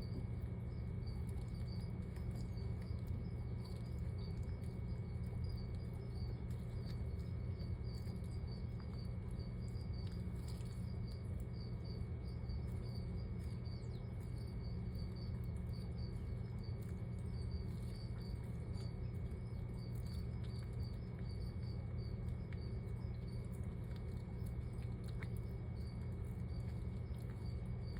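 Steady low hum with a high chirping repeated evenly a few times a second, and a few faint clicks.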